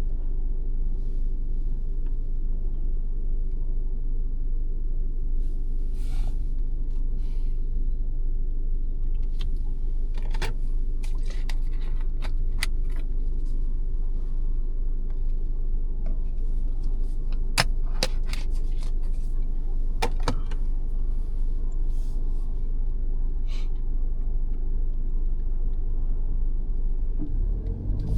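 Steady low road and engine rumble heard inside the cabin of a 2022 Mazda 3 saloon driving along. Through the middle stretch there is a scattering of light, irregular clicks and ticks.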